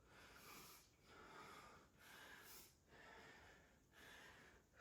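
A woman breathing hard and faint, about five deep breaths roughly a second apart, winded from exercise.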